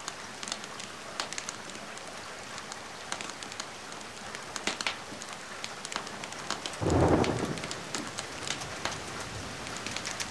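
Steady rain with the crackle and pops of a wood fire. About seven seconds in, a short low rumble of thunder rises suddenly and fades within a second or so.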